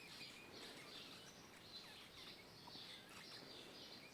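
Faint birdsong over quiet room tone: small birds chirping repeatedly in short, high notes.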